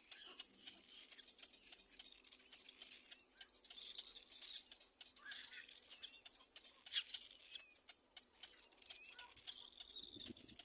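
Faint outdoor ambience: a steady high insect drone with many scattered sharp clicks, the loudest about seven seconds in, and a few faint short chirps.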